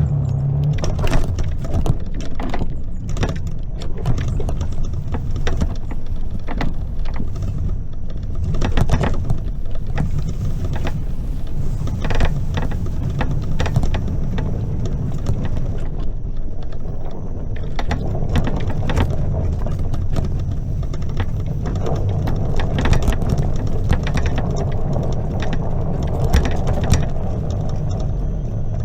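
Greenworks 60V electric mini bike being ridden: a steady rumble from the tyres and wind on the microphone, with frequent rattling clicks and knocks from the bike's mechanism.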